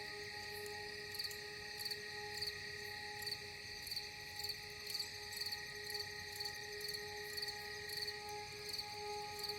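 Forest ambience of high, evenly repeating chirps, about two a second, over soft sustained ambient music tones.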